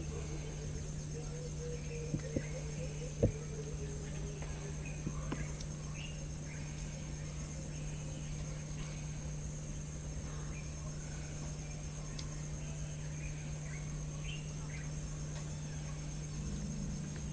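Outdoor ambience: a steady low hum with faint, scattered bird chirps and insect noise. A few sharp knocks come about two to three seconds in.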